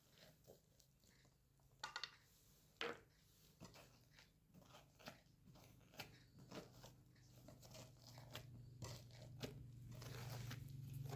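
Faint, irregular crunching and clicking, with a few louder crunches about two and three seconds in, over a low hum that grows toward the end.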